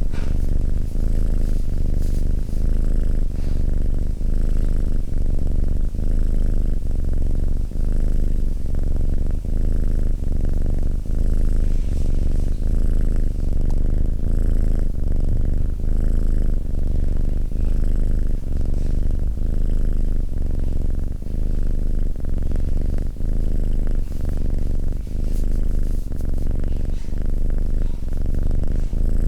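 Domestic cat purring steadily in close-up, a deep low rumble that pulses in an even rhythm as it alternates with the cat's in- and out-breaths.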